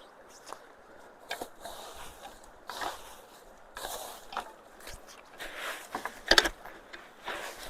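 Irregular scrapes and knocks of a hand tool working at debris jammed in a culvert, with a cluster of sharper knocks a little past the middle.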